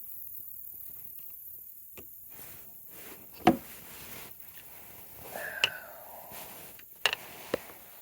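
Fishing tackle handled in a kayak: a few separate sharp knocks and clicks, the loudest about three and a half seconds in, with a short squeak in the middle.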